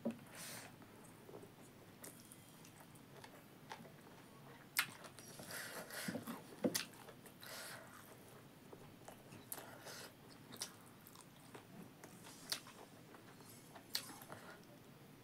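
Close-up chewing and biting of a mouthful of rice and buffalo meat eaten by hand, with scattered wet mouth clicks and a few brief crunches.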